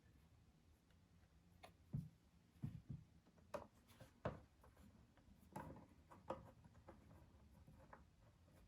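Faint, scattered clicks and light knocks, about ten of them, in a burst from about two seconds in to past the middle.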